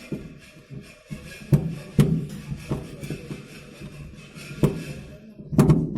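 Sharp plastic clicks and knocks as a car's dome light holder is pressed and snapped into place in the roof lining, a few single clicks and then a louder cluster near the end, over background music.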